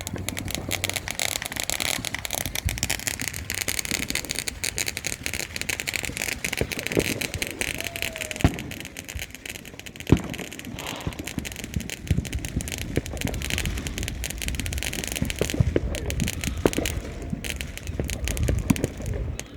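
Fireworks crackling in a dense, continuous stream of rapid pops, with a couple of sharper, louder bangs about eight and ten seconds in; the crackling cuts off suddenly at the end.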